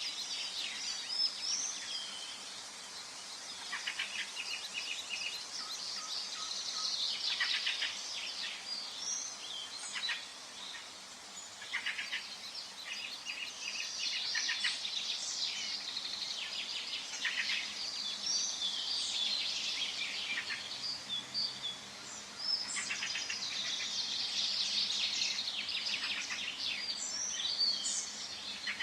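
Several songbirds singing at once in a forest, overlapping trilled and chirping phrases that come and go every few seconds over a steady background hiss.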